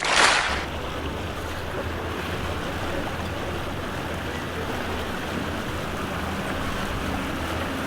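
Boat motor running steadily under a rush of water and wind noise on the microphone, opening with a brief loud whoosh.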